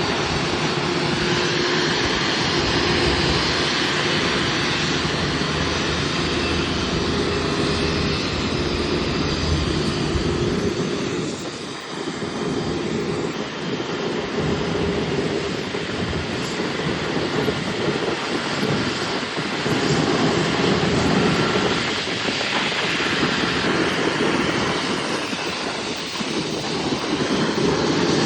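Airliner engines running loudly at close range, a steady noise with a faint whine in it that dips briefly partway through and builds again near the end.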